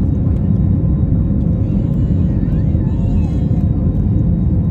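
Jet airliner taking off: a steady, loud low rumble of its engines.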